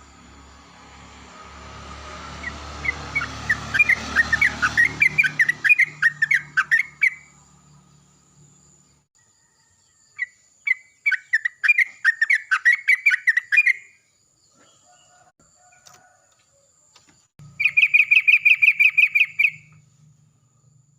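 Yellow-vented bulbul calling in three bursts of quick, bubbling chirps, the last a fast even trill near the end. A rushing noise swells under the first burst.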